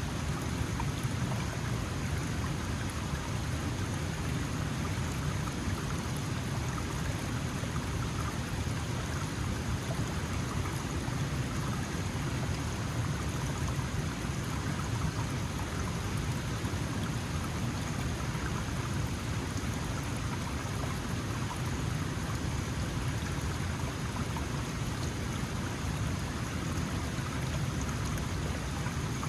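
Small mountain stream flowing steadily, water rushing and splashing over stones with a low, even rumble.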